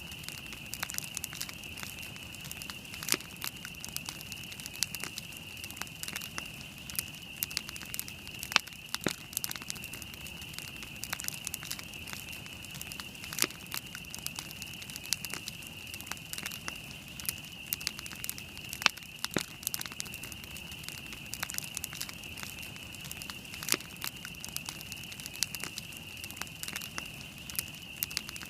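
Wood campfire burning, with frequent sharp crackles and pops at irregular intervals over a steady high-pitched hiss.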